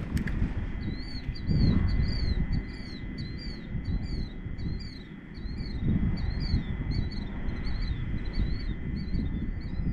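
A small bird chirping over and over, a short rising-and-falling chirp about twice a second, over a low, uneven wind rumble on the microphone. A faint steady high tone runs underneath.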